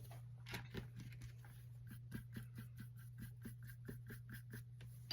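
Paintbrush scrubbing acrylic paint onto a canvas in short, quick, repeated strokes, about four a second through the second half.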